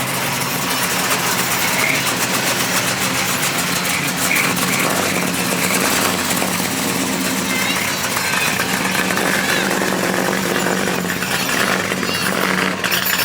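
A car engine running steadily at idle, with a rapid pulsing beat, amid the chatter of a crowd.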